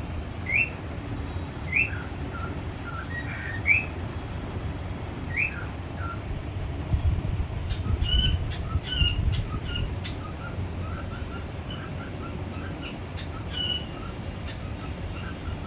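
Pet parrot calling: short rising whistled chirps repeated every second or two, then a quicker run of harsher, squawky calls about halfway through and once more near the end.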